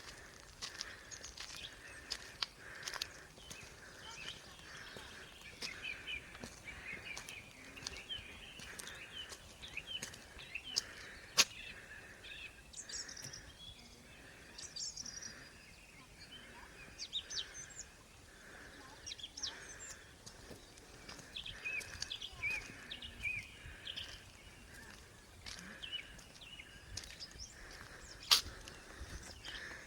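Birds chirping and singing outdoors, with short calls and trills scattered throughout and a soft note repeating about once a second. Two sharp clicks stand out, about eleven seconds in and near the end.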